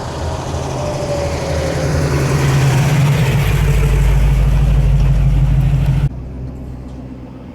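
A car's engine rumbling as it drives in, growing steadily louder, then cut off suddenly about six seconds in.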